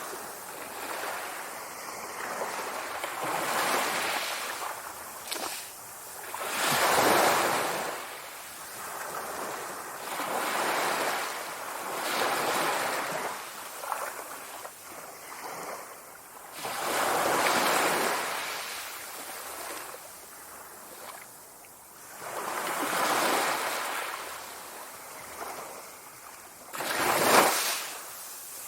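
Sea waves washing in on the shore, a swell of surf every few seconds that rises and falls away, one sharper and louder wave near the end.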